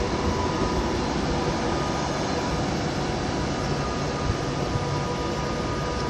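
Class 390 Pendolino electric train coming into the platform: a steady rail rumble with a faint, even whine over it.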